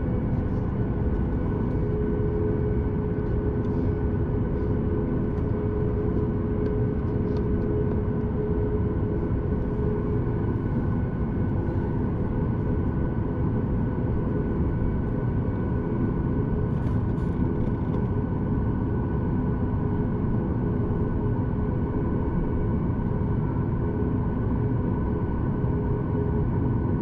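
Steady cabin rumble of a Boeing 737 MAX 8, with the constant hum of its CFM LEAP-1B engines running at an unchanging power setting.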